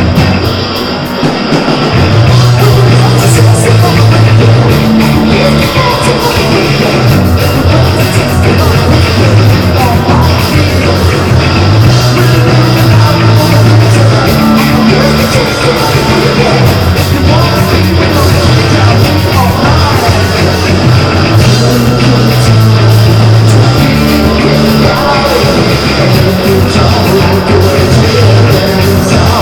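Live rock band playing loud, heavy music with electric guitar over a repeating bass line; the full band comes in about two seconds in.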